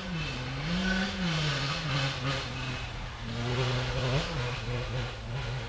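An engine running steadily, revving up and down a few times.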